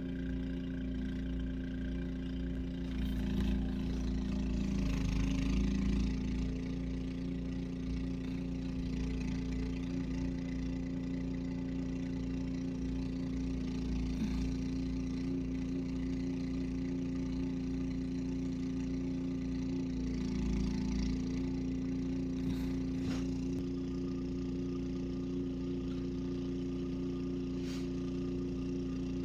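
A machine running with a steady, even hum, with a few faint clicks.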